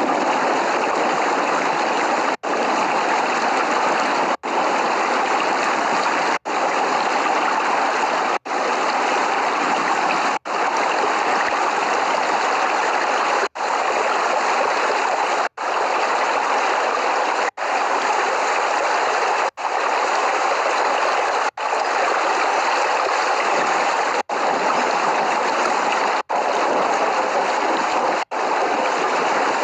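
Steady heavy rain hiss, broken by a very brief gap about every two seconds. No thunder.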